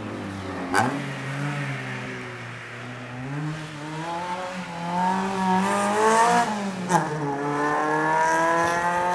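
Race car engine accelerating, its pitch climbing, dipping briefly near seven seconds, then climbing again. Two sharp cracks, about a second in and near seven seconds.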